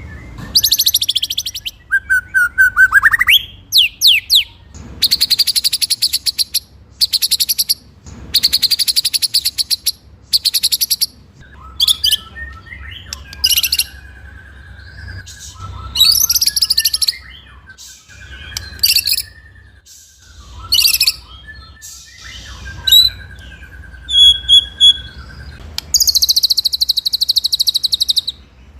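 White-rumped shama (murai batu) singing in short bursts: fast rolling trills and sharp high notes, with a few rising and falling whistles between them.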